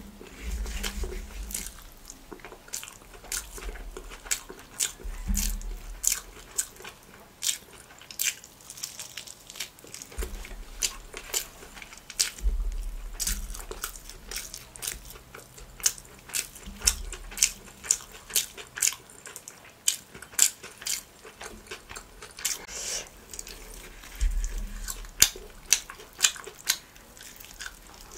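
Close-miked mukbang eating of parotta and spicy chicken leg by hand: chewing and wet mouth smacks, heard as many quick, irregular clicks, with a low thud now and then.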